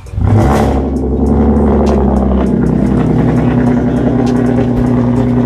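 Car engine starting suddenly and settling straight into a loud, steady idle.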